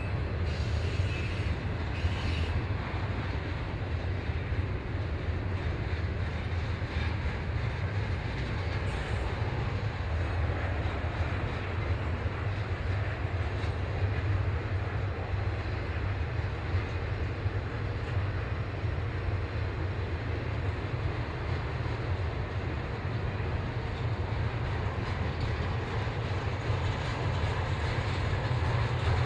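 A train rolling by: a steady rumble of wheels on rail over a deep, even low drone.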